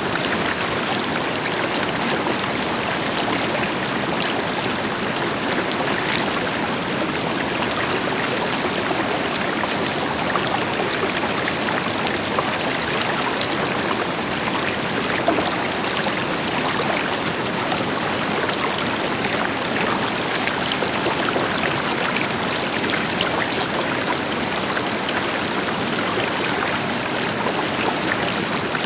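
River water flowing over stones, a steady rushing and burbling, with the deeper hiss of a waterfall behind it.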